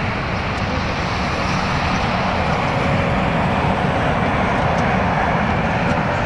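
Jet engine noise from a Boeing 777-200LR's GE90 engines on final approach: a steady rushing roar that grows slowly louder as the airliner nears, with a faint whine coming in near the end.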